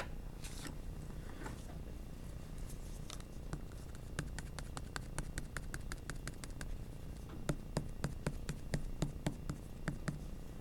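Drawing on paper with graphite: a run of quick, short scratchy strokes, several a second, starting about three seconds in, after a single sharp click at the very start.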